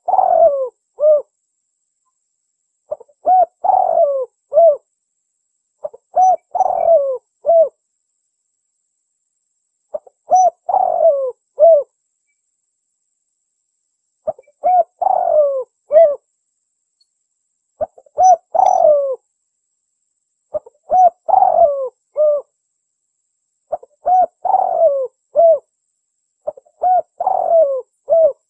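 Spotted dove (tekukur) cooing as a lure call. A phrase of short coos wraps around one longer, falling coo, and the phrase repeats about nine times, a little over three seconds apart.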